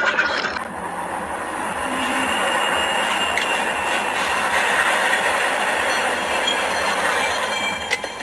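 Steady rolling vehicle noise with faint, thin, high-pitched squealing tones over it, changing abruptly about half a second in.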